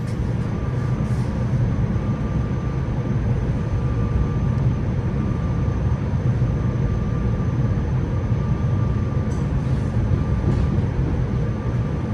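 Interior noise of a SEPTA Silverliner V electric multiple unit pulling out of the station: a steady low rumble with a faint steady tone above it.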